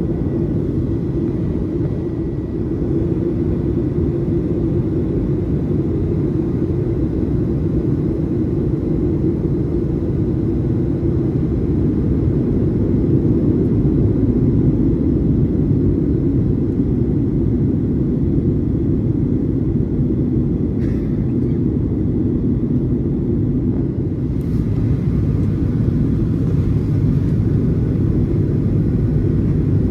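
Steady cabin rumble of a Boeing 737-800 in flight: its engines and the airflow heard from inside the passenger cabin as an even, unbroken low drone.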